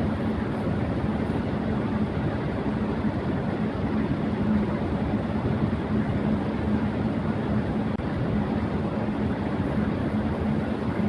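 Electric fan running at high speed: a steady rush of air with a constant low hum under it.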